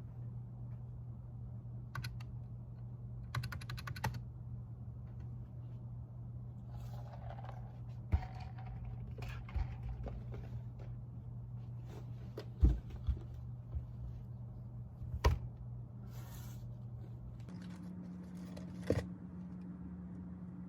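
Computer keyboard typing in scattered clicks, with a few louder taps, over a steady low hum that shifts higher in pitch near the end.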